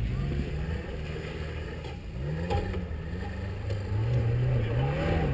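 Off-road 4x4's engine revving up and down as it climbs a steep grassy slope, its pitch rising about two seconds in and again near the end.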